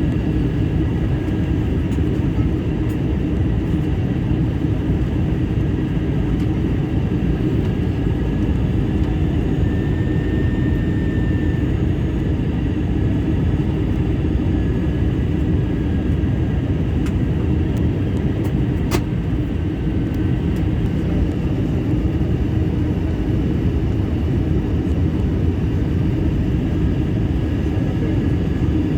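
Steady cabin noise of an Airbus A321 in flight: the even rumble of engines and airflow heard from inside the passenger cabin. A faint high tone runs under it, and a single click comes about two-thirds of the way through.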